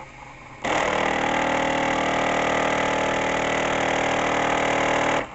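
3D printer stepper motor buzzing loudly and steadily for about four and a half seconds, then cutting off abruptly. The axis is driving against its stop and the motor is skipping steps, which the owner puts down to a bad end stop.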